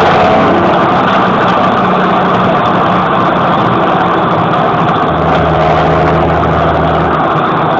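John Deere 6820 tractor's six-cylinder diesel running steadily with no muffler, a loud open exhaust note.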